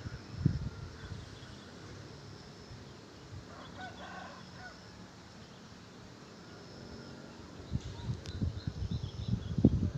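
Wild birds calling faintly, with a short crow like a rooster's about four seconds in. Low wind rumbles on the microphone are the loudest sound, briefly near the start and repeatedly near the end.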